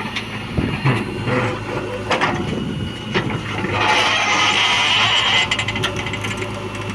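Diesel engine of a JCB 3DX backhoe loader running steadily, with scattered clunks and a hiss that lasts about a second and a half in the middle.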